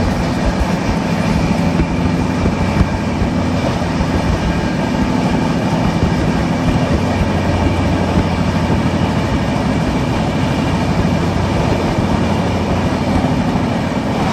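Steady running noise of a moving express train heard from inside the coach: wheels rumbling and rattling on the track at speed, with a low hum underneath.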